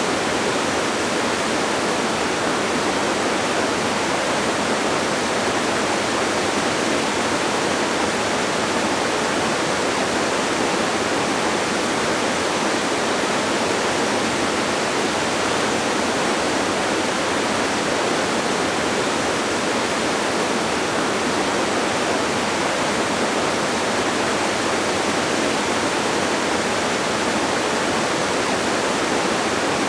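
Distant waterfall: a steady, even rush of falling water that does not change.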